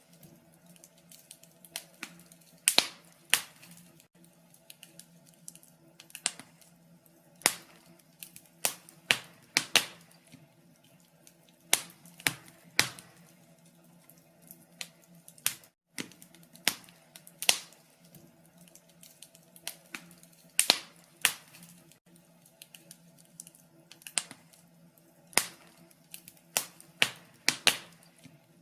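Wood fire crackling in a fireplace: sharp, irregular pops and snaps, about one or two a second, some louder than others.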